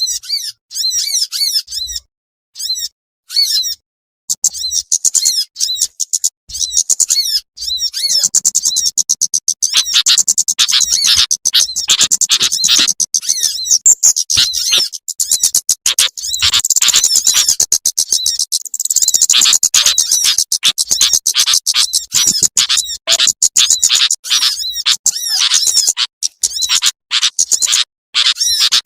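Small-bird lure recording: rapid, high-pitched chirping and twittering calls of small songbirds such as sunbirds. The calls come in short gapped phrases for the first few seconds, then run in dense, almost unbroken trills.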